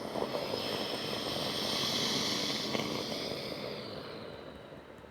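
Qantas Boeing 787's Rolls-Royce Trent 1000 jet engines passing low overhead on landing approach. A rushing roar with a high whine builds to its loudest about two seconds in, then fades away.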